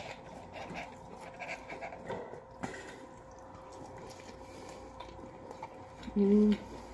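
Quiet eating noises, chewing and small clicks and rustles, close to the microphone. About six seconds in there is a short hummed "mm".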